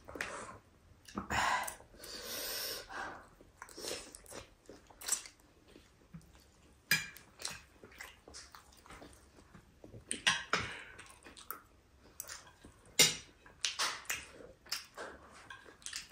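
People chewing and biting food close to the microphone: irregular chewing sounds with a few sharper clicks.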